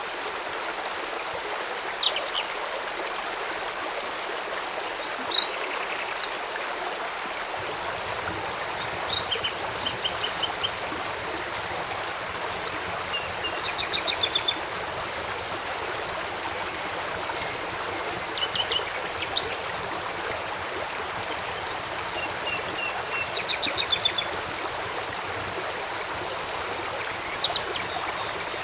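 A river flowing steadily, with birds calling now and then over it: single chirps and a few quick runs of four or five notes.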